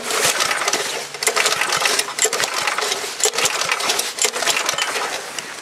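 5 hp Tecumseh H50 single-cylinder flathead engine being cranked on its pull starter, turning over with a fast, uneven clatter but not catching. It is a cold start, and the owner puts the trouble down to the rain.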